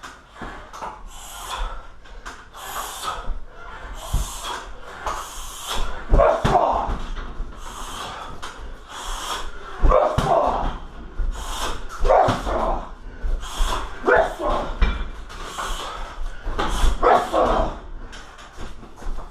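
Repeated strikes thudding into a heavy bag, a hard hit every second or two, each with the fighter's sharp hissing exhale and grunt.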